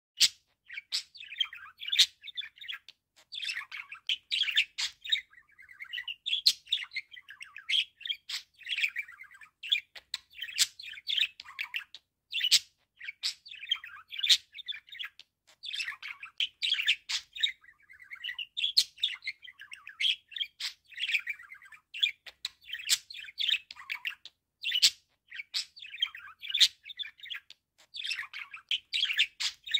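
Budgerigar warbling: a continuous fast chatter of chirps, whistles and sharp clicks, in phrases broken by brief pauses.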